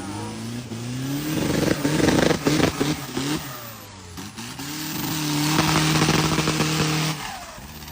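Motor vehicle engine revving up twice. It climbs and falls back within the first few seconds, then rises again, holds high for about two seconds and drops back near the end.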